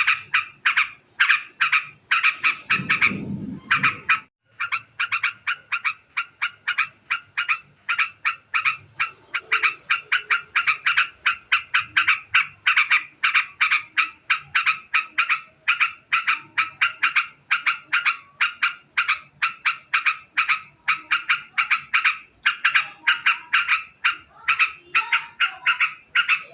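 Yellow-vented bulbul (trucukan) giving its long, very fast chattering 'ngekek' call: short notes about three to four a second, running on almost without a break, with a short pause about four seconds in.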